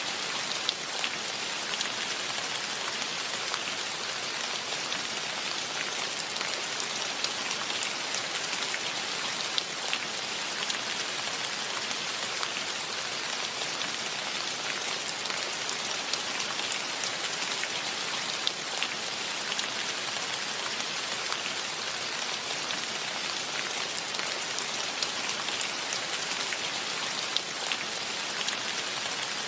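Steady rainfall: an even hiss of many drops, with single drops ticking out sharper now and then.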